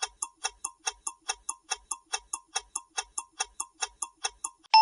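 Ticking-clock sound effect of a quiz countdown timer, with fast, even ticks about five a second. The ticking stops just before the end, where a chime begins.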